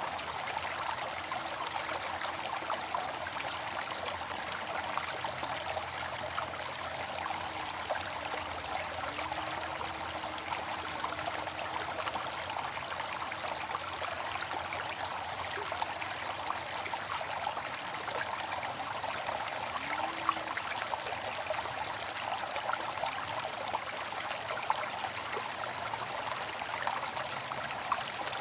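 Water fountain splashing and trickling steadily.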